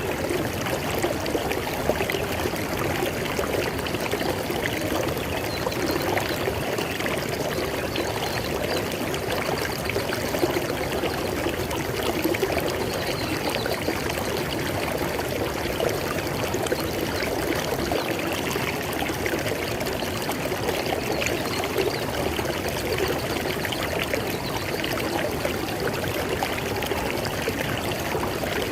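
River water flowing over rocks, a steady splashing and gurgling rush that never lets up.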